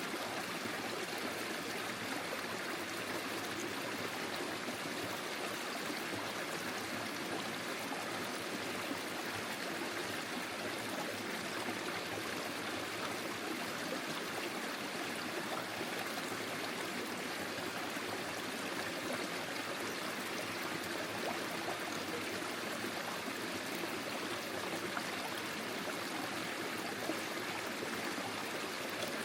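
Small forest stream flowing and trickling steadily over stones.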